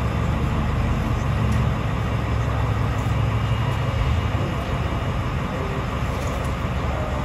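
2021 Ram TRX's supercharged 6.2-litre V8 with a straight-piped exhaust idling, a steady low rumble.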